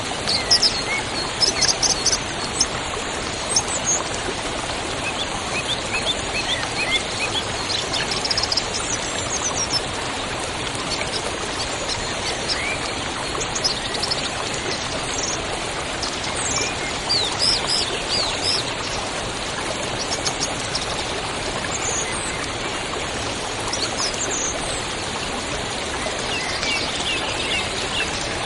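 Steady rush of running water with small birds chirping over it, their short high calls coming in scattered clusters.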